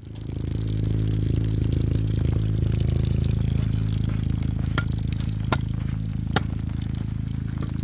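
A motor starts up and runs with a steady low hum. Three sharp clicks come about five to six and a half seconds in.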